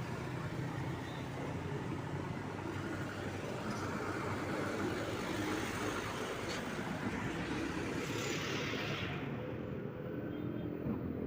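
Motor vehicle engine running amid road traffic noise. About nine seconds in, the high hiss fades away and a steady low engine hum remains.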